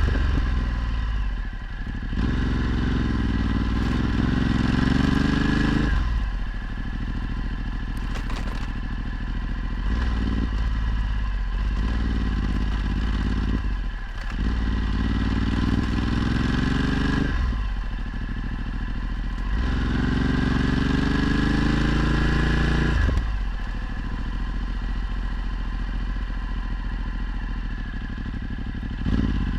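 Ducati Multistrada 1260's V-twin engine, through a Termignoni exhaust, under way. Several times it pulls up through the revs in a rising note, and each rise breaks off sharply as the throttle shuts or a gear is changed.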